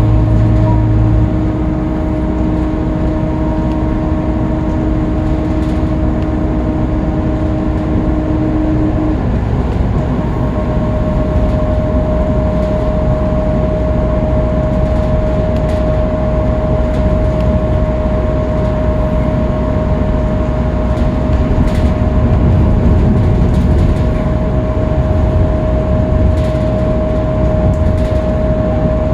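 Scania K310UB city bus heard from inside the cabin at freeway speed: steady engine and drivetrain rumble with road noise and a constant high whine. A low hum drops away about a second in, and a second, lower tone fades out about a third of the way through.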